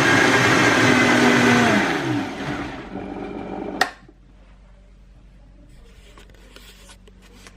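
Countertop blender running on a milk-and-leafy-greens smoothie, switched off about two seconds in, its motor winding down in pitch. A sharp click near four seconds, then quiet.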